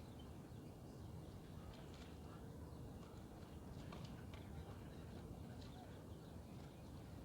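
Faint outdoor ambience: a low steady rumble with scattered soft clicks and ticks.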